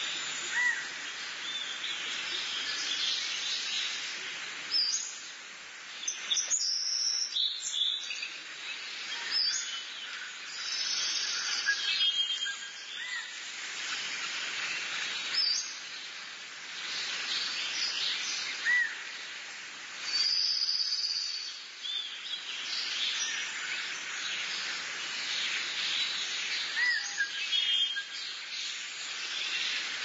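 Wild birds calling and chirping: short high whistled notes and trills scattered through, over a steady background hiss.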